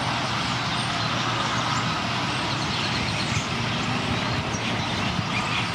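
Dense, continuous chatter of thousands of purple martins swirling in a twilight roost flock, countless short overlapping chirps, over a steady low rumble.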